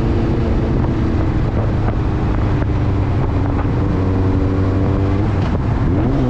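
Street motorcycle engine running under way, with wind rushing over the microphone. The engine note holds steady, climbs a little, then dips and rises again near the end.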